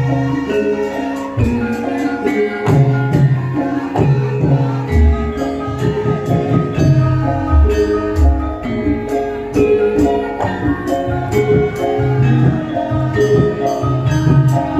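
Live campursari band music: held melodic notes over a repeating bass line, with a steady percussion beat throughout.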